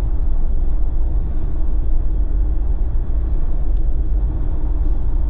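Jeep driving steadily: a constant low rumble of engine and tyre road noise.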